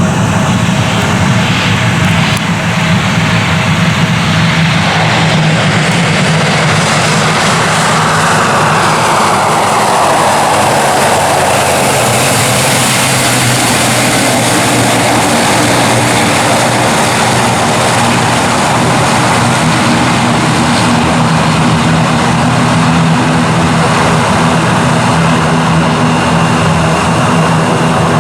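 Airplane engines running loud and steady, with a rushing sound that falls in pitch about a third of the way through as an aircraft passes.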